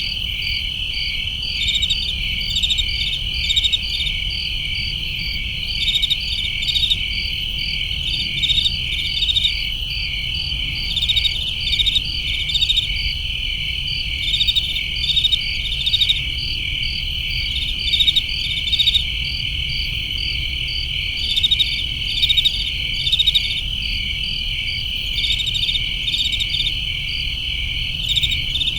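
Crickets chirping in a steady night chorus, a continuous high trill with louder pulsed chirps coming about once a second, over a faint low rumble.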